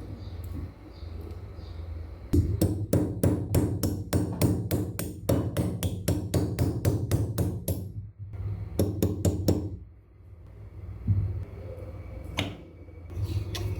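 Hammer blows on the metal parts of a rusty vise: a fast, even run at about four blows a second for several seconds, then a short group of four more, and a few further strikes near the end.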